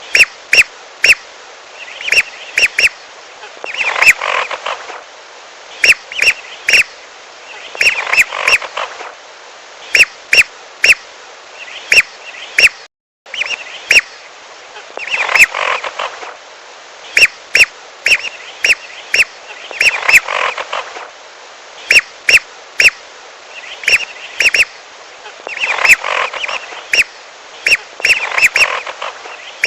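Whistling ducks (belibis) calling: short, sharp whistled notes come in quick clusters that repeat over and over, with a brief cut-out about thirteen seconds in. It is a bird-lure recording of their calls, used to draw wild whistling ducks down to a pond.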